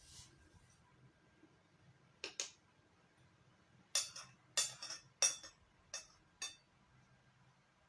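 Eating sounds: about six short, sharp clicks at uneven intervals, one a couple of seconds in and the rest clustered between about four and six and a half seconds in.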